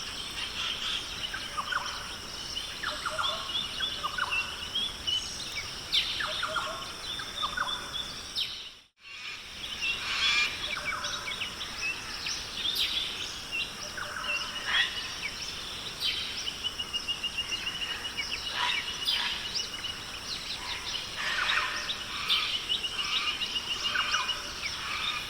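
Rainforest ambience: many birds calling and chirping in short notes and trills over a steady high background, with the sound cutting out briefly about nine seconds in.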